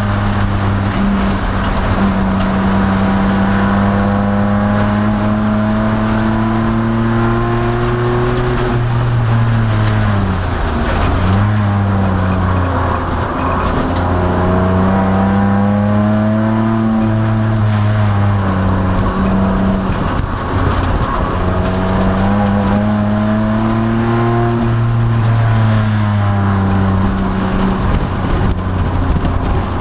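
2002 Nissan Maxima race car's 3.5-litre V6 running hard on track, heard from inside the cabin. Revs hold high, then drop sharply about ten seconds in and again about twenty seconds in, climbing back up after each drop.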